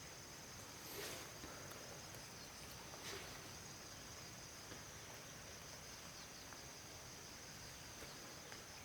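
Faint, steady chorus of crickets or similar insects, one constant high note, with two soft knocks about a second and three seconds in.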